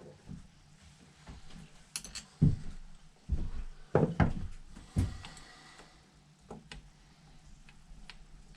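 Metal carburetor parts and small hand tools being handled on a workbench: a run of sharp clinks and knocks as pieces are set down and fitted, the loudest from about two to five seconds in, then lighter ticks.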